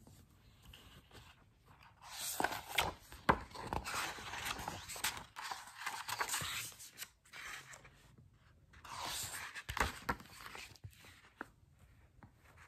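Hands opening a hardcover picture book and turning its thick pages: paper rustling and sliding in two stretches, the first a few seconds long, with a few sharp clicks of the cover and pages.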